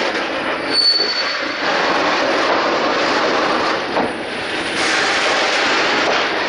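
Freight train rolling past on the track: a steady loud rush of wheels and wagons, with a short high squeal about a second in.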